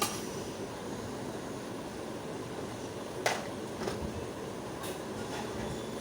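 Steady background hiss with three or four short, sharp clicks past the middle, the loudest about three seconds in.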